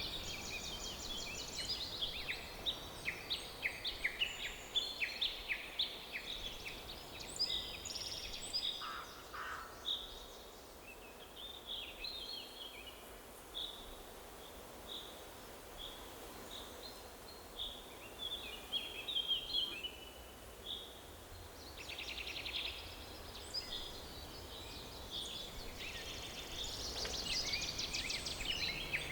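Several songbirds chirping and trilling over a faint steady background hiss. The calls come thick at first, thin out for about ten seconds in the middle, then build up again near the end.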